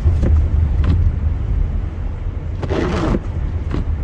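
Car cabin road noise while driving on a snowy highway: a steady low rumble of tyres and engine, with a short burst of noise about three seconds in.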